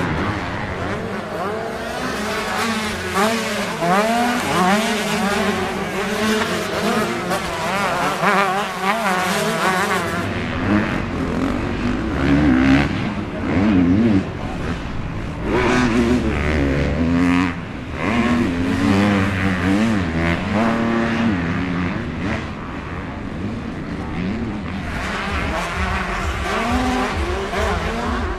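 Motocross bikes at racing speed, their engines revving up and down as the riders work the throttle. Several bikes are heard at once, and the sound changes character about ten seconds in.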